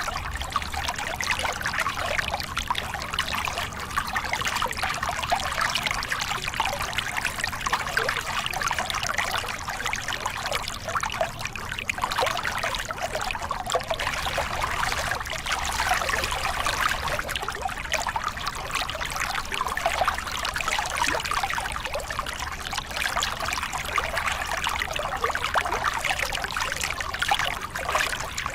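Small river cascade: water pouring and splashing steadily over rocks, a bright, even rush with fine splashy flicker.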